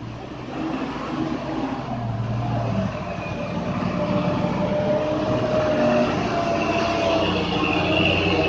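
Truck engine running under load, growing louder over the first few seconds, with a steady high whine over the rumble.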